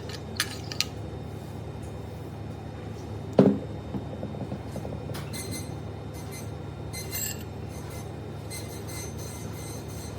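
Steel punch-press tool parts knocked and clinked together during assembly: two light metallic clicks near the start, one sharp knock about three and a half seconds in, then lighter clinks and ringing, over a steady low hum.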